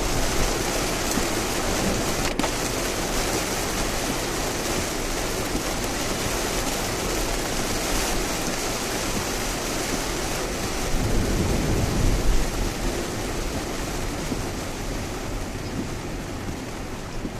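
Steady rush of heavy typhoon rain and wet-road tyre noise from a Lexus RX driving on an expressway in a downpour. A louder, lower swell comes about eleven seconds in.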